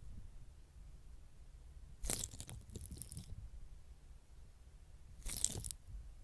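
Two crisp crunching sounds, one starting about two seconds in and lasting about a second, a shorter one near the end, over a faint low hum.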